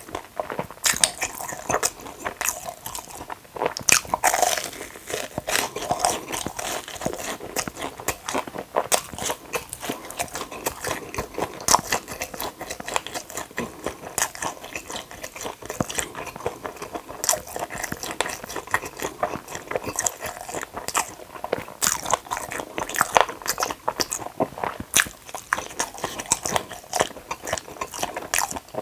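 Close-miked eating: biting into and chewing the crispy fried batter of a Korean hot dog, with many sharp irregular crunches and crackles throughout.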